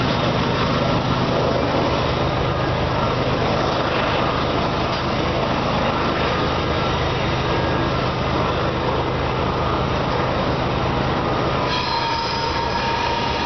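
Loaded grain train's covered hopper cars rolling past, a steady rumble of steel wheels on rail. About twelve seconds in, a thin high wheel squeal comes in over the rumble.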